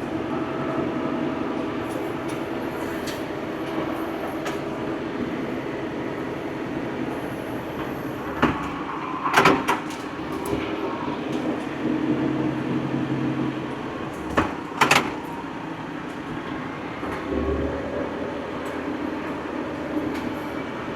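Old farm tractor's engine running steadily under work, with a few sharp clanks and knocks, two pairs, about 8 and 14 seconds in.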